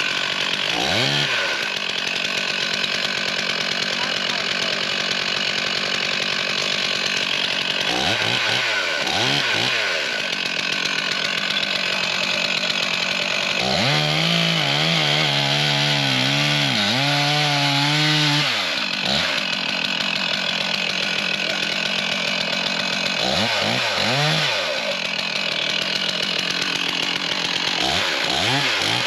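Two-stroke chainsaw running hard, bucking a fallen tree, its engine pitch dipping and rising again several times as it works through the cut.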